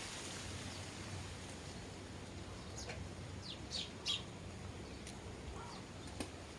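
Sparrows giving a few short chirps, bunched about halfway through, over a quiet outdoor background.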